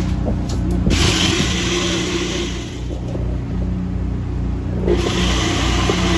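Steady low machine hum, with two spells of hissing noise: one about a second in, and one near the end.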